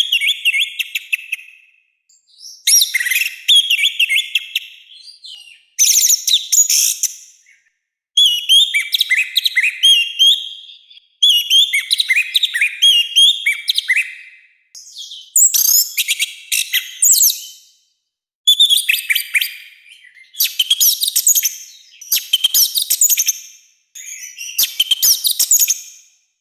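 Orange-headed thrush singing loudly: a run of rapid, harsh phrases of chirps and whistles, each a second or two long, with short pauses between them.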